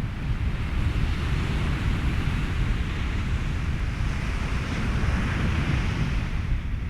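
Ocean waves and wind in a steady noise bed with a deep rumble; a wave's wash swells about a second in and eases off near the end.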